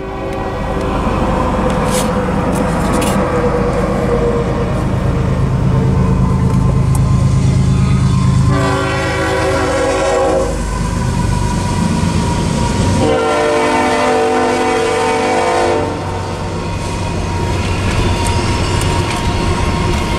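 Kansas City Southern diesel locomotive leading a double-stack intermodal freight train, approaching and passing close by. The engine rumble builds, then the horn sounds twice, about nine seconds in and again about thirteen seconds in with the second blast longer, followed by the rumble of the container cars rolling on the rails.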